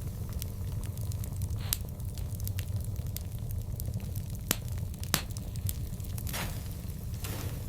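Wood fire burning: a steady low rumble of the flames with scattered sharp crackles and pops, three louder pops about one and a half, four and a half and five seconds in, and a few brief hisses.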